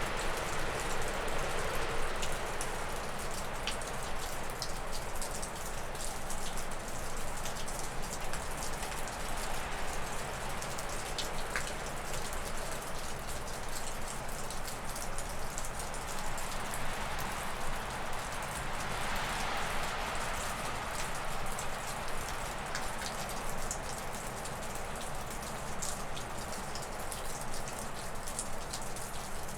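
Wind gusting through spruce and birch trees, a steady rushing that swells near the start and again about two-thirds of the way through. Meltwater from thawing snow drips off a roof as many small scattered ticks.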